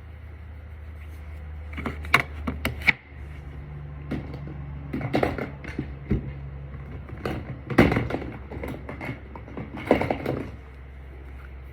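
Makeup containers and tools being handled: clusters of sharp clicks and taps, about four bursts over a steady low hum.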